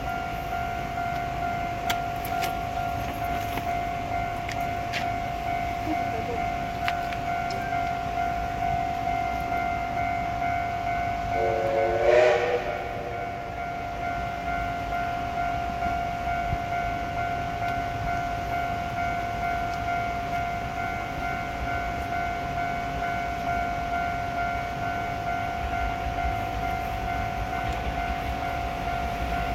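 Commuter train running, with a steady hum and whine and rumble throughout. About twelve seconds in, a short horn blast sounds once, about a second long.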